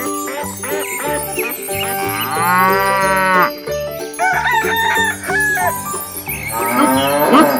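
Farm-animal sound effects over background music with a repeating bass line: a cow moos once, long, about two seconds in, and a rooster crows.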